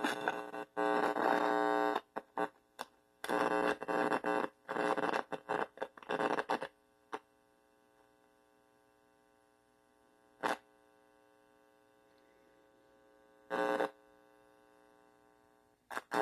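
Small guitar amplifier with bare wires on its input, giving out bursts of buzzing static and hum that cut in and out irregularly. After about seven seconds it falls nearly quiet, with one short burst about ten seconds in and another near fourteen.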